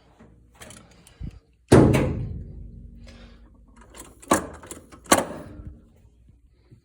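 A car door slamming shut about two seconds in, followed by two sharper knocks and some handling clatter.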